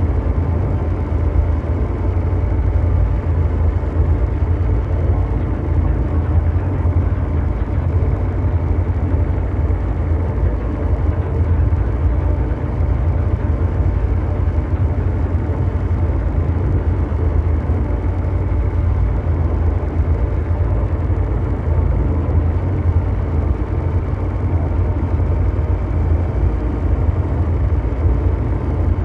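Continuous ambient mechanical drone noise: a steady, deep noise with most of its weight in the lowest bass and a faint steady hum above it, unchanging throughout.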